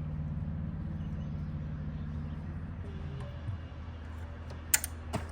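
Low, steady running of an engine at idle, with an even pulse. Two sharp clicks come near the end, the first the loudest.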